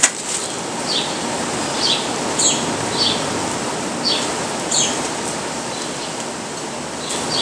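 A bird calling over and over with short, high chirps that drop in pitch, about one a second, over a steady rushing hiss.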